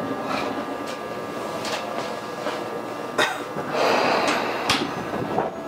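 Tobu 20000 series commuter train standing before departure: a faint steady equipment hum with scattered clicks and knocks, and a short burst of hiss about four seconds in.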